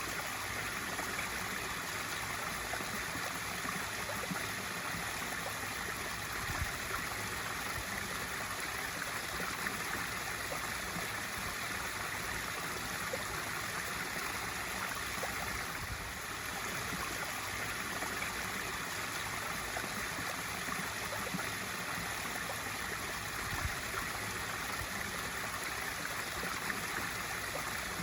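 Pool waterfall feature running: a steady splashing rush of water falling into the pool.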